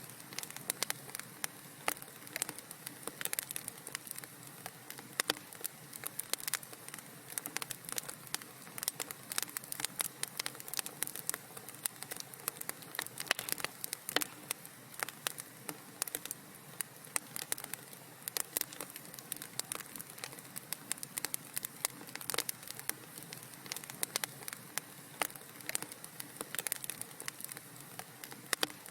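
Wood fire crackling steadily in a fireplace, with many sharp irregular pops and snaps over a soft hiss.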